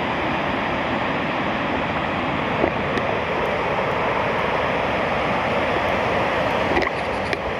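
Waterfall water rushing steadily, with a few light clicks near the middle and end.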